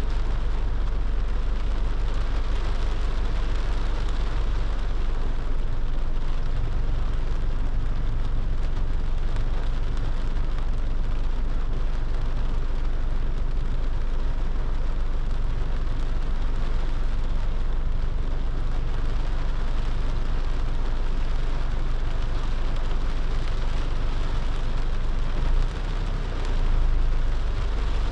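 A car driving in the rain: a steady low rumble of engine and tyres under an even hiss of rain and wet road spray. It dips briefly and swells again near the end.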